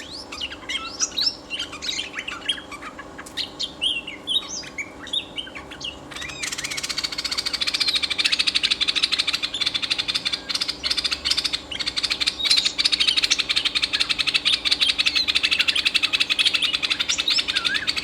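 Bulbul (merbah) calling: a run of separate quick whistled notes, then from about six seconds in a dense, rapid chattering that carries on.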